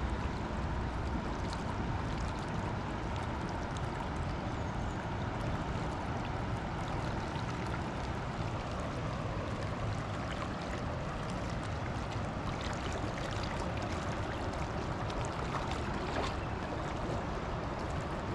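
Steady rush of flowing river water, with faint scattered ticks over it.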